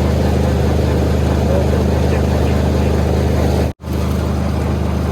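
Combine harvester engine running at a steady speed, a constant low hum. The sound cuts out for an instant about three and a half seconds in and comes straight back the same.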